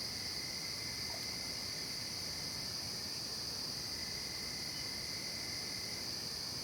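Night-time insect chorus in a forest: a steady, unbroken high-pitched drone of many calling insects, with a fainter lower steady note that sounds twice, briefly dropping out in between.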